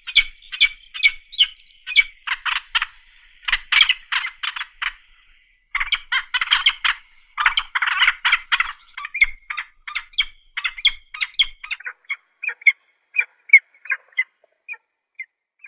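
Peregrine falcon calling: a long series of short, rapidly repeated calls, coming in dense runs that thin out to scattered single notes near the end.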